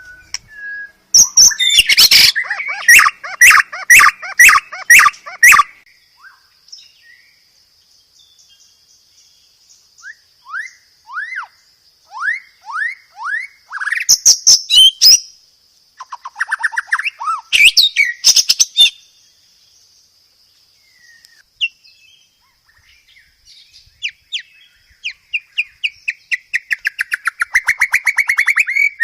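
Songbird song from a masteran training track: bursts of loud, rapid repeated notes, a thin high trill held steady through the middle, and a run of short rising whistles, ending in fast repeated notes that build up.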